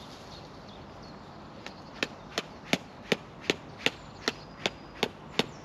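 A mallet hammering a tent peg into the ground: about ten sharp, evenly spaced strikes, roughly three a second, starting about two seconds in. The peg is meeting something solid underneath, in stony ground.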